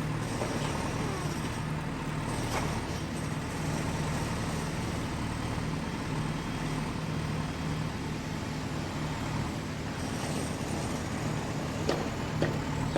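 Tractor engine running steadily, a low even drone that holds its pitch. A few short clicks come near the end.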